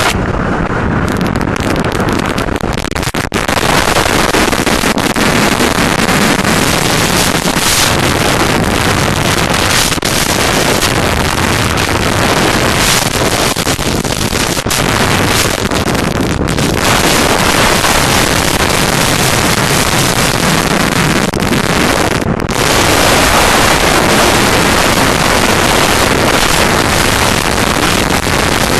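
Heavy wind noise rushing over a helmet-mounted camera's microphone, loud and steady with a few brief dips.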